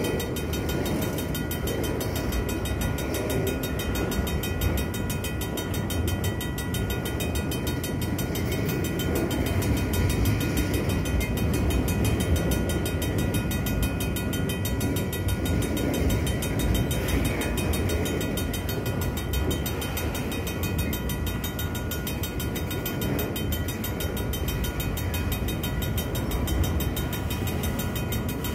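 Freight cars roll slowly through a grade crossing with a low rumble and rattle. Over them, the crossing's old mechanical bell rings fast and steadily without a break.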